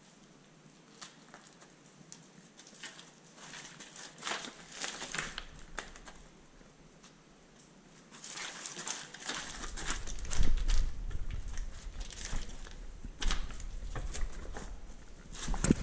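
A person clambering through a rocky cave: irregular footsteps, scrapes and shuffles on stone, with knocks and low rumbling handling noise on the microphone growing louder in the second half.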